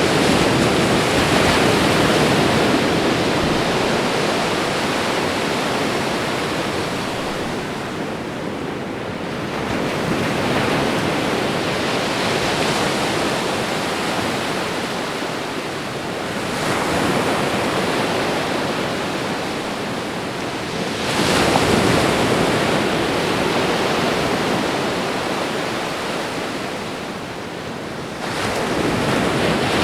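Ocean surf washing onto a shore: a continuous rush that swells and fades as one wave after another breaks, about every five to ten seconds.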